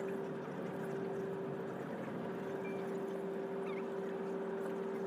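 Steady cabin hum of an Airbus A330-343 with its Rolls-Royce Trent 700 engines at idle before the takeoff roll. A constant mid-pitched tone, briefly dropping out twice, sits over an even low rush of air.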